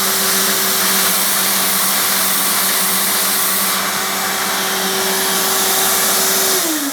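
Vacuum cleaner motor running steadily with rushing air, driving a Lego air engine. Near the end it is switched off and its whine falls in pitch as it spins down.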